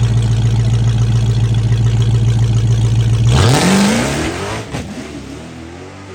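Drag-racing car's engine running at a steady, loud idle, then launching about three and a half seconds in: the revs climb sharply with a burst of noise, and the sound fades as the car pulls away down the track.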